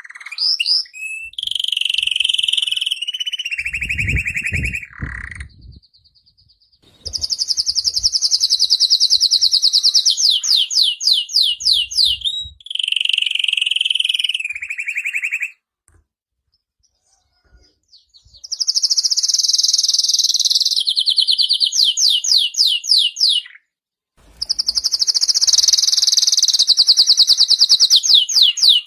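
Domestic canary singing in long phrases of rapid rolling trills, four phrases with short pauses between them. Several phrases end in a fast trill that falls in pitch.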